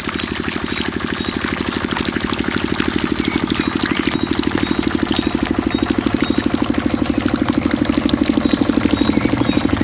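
Mini diesel engine of a water pump running steadily with a fast, even beat, growing slightly louder over the seconds.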